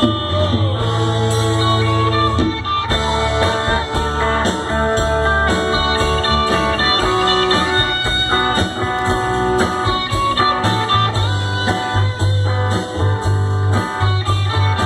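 A live band playing a slow rock song: an instrumental passage with a guitar line over bass and drums, with little or no singing.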